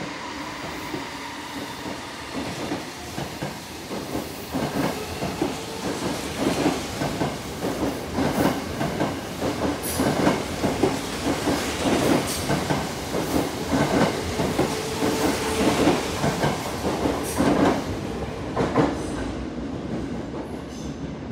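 Tokyo Metro 05 series electric commuter train pulling out of the station. Its wheels clack over the rail joints more and more often as it gathers speed, loudest in the middle, then fading as the last cars pass.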